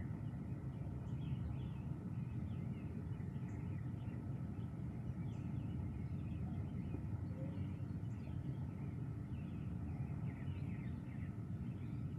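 Birds calling in short, quick chirps scattered throughout, over a steady low rumble of background noise.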